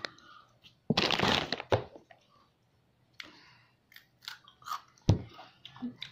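A person biting and chewing crunchy food close to a phone microphone: a loud crunch about a second in, then quieter crackly chewing, with one sharp knock about five seconds in.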